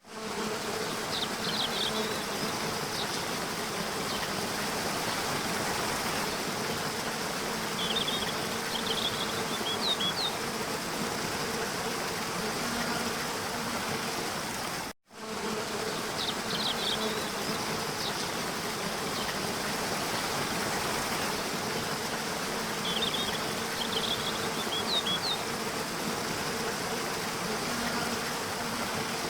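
Steady rush of a waterfall with a low buzzing hum under it and a few short high chirps from birds. The sound cuts out for an instant about halfway through and the same stretch then repeats, chirps included.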